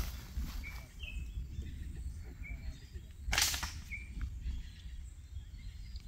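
Small birds giving short, falling chirps every second or so over a low rumble, with one brief noisy swish a little over three seconds in.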